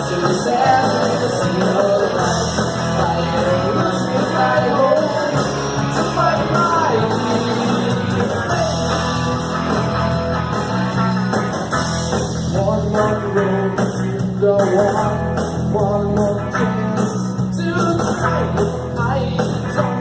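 A rock band playing live, with guitar and singing over a steady low accompaniment.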